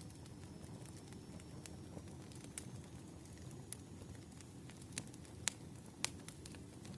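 Campfire of burning firewood: a steady low rumble of flames with scattered sharp crackles and pops from the wood, a few louder pops in the latter half.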